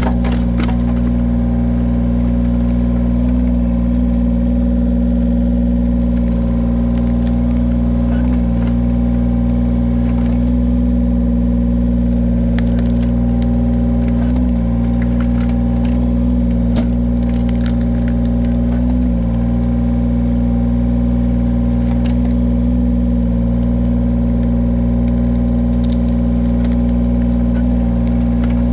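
Heavy-equipment engine running steadily while powering a hydraulic firewood cutter. Its pitch sags briefly four times, a few seconds apart, as the hydraulics take load, with faint knocks and cracks from the wood.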